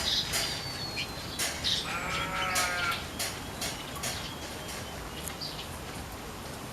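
Weaver birds (manyar) in an aviary giving short sharp chirps throughout, with one longer, buzzy call with many harmonics about two seconds in.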